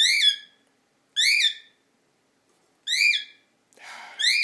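Cockatiel calling loudly and over and over: four short calls, each rising then falling in pitch, about one every second and a half.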